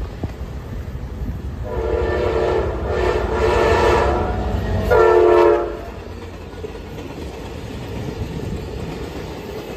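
Passenger train sounding its horn as it approaches and passes: two long blasts, then a shorter, louder one about five seconds in, over the low rumble of the train running by on the rails.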